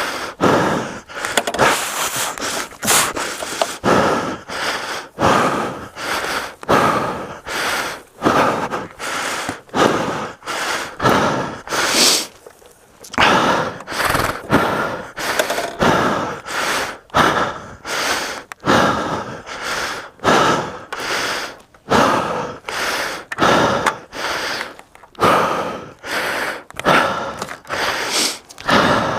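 A man's heavy, rasping breathing close to the microphone, one hard breath in or out about every second, with a short pause about halfway through. He is out of breath, exhausted from struggling to lift a dropped heavy motorcycle.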